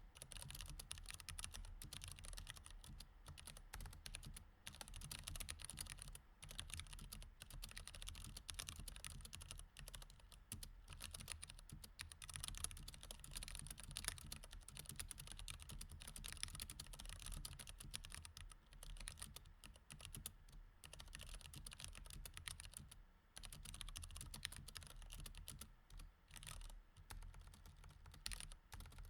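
Mechanical keyboard with Cherry MX Red switches being typed on continuously: a dense run of key clacks, with short pauses between bursts now and then.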